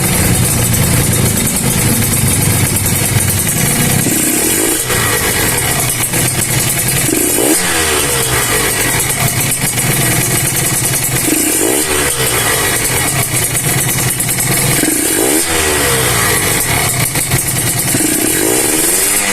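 Kawasaki Ninja RR single-cylinder two-stroke engine running, with five short throttle blips that rise and fall in pitch about every three to four seconds. The engine is noisy, which the mechanic puts down to worn piston-to-cylinder clearance.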